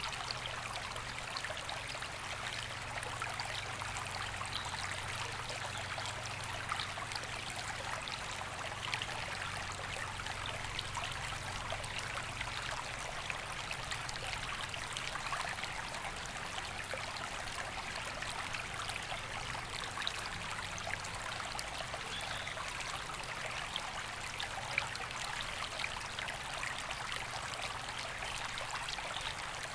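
A river flowing steadily over stones, an even rushing and babbling of water that doesn't change.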